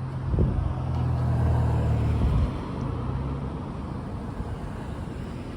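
A motor vehicle's engine running as a low hum, louder for the first two and a half seconds, then easing off over a steady road-like noise.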